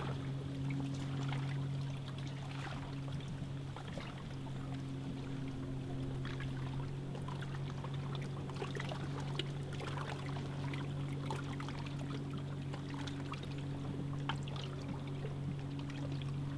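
Water trickling, dripping and lightly splashing around a canoe on a lake, typical of paddling, with many small irregular splashes over a steady low hum.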